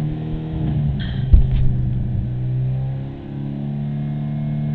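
Mitsubishi Lancer Evo IX's turbocharged four-cylinder engine running under load, heard from inside the cabin, its pitch rising and then falling, with a sharp knock about a second in.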